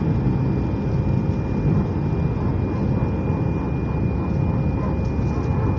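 Airbus A319 engines running, heard inside the passenger cabin as a steady rumble with a thin high whine over it.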